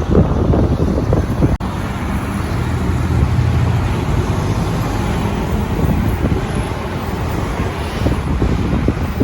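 Bus engine and city road traffic, with wind buffeting the microphone: a steady rumble, with a very brief dropout about a second and a half in.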